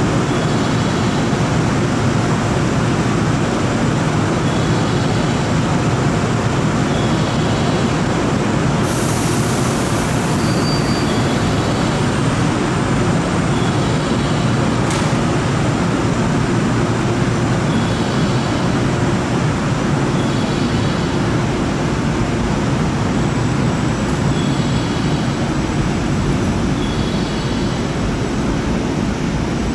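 Heavy downpour: a loud, steady wash of rain noise, with a short pair of high electronic beeps repeating every two seconds or so. A brief hiss comes about nine seconds in.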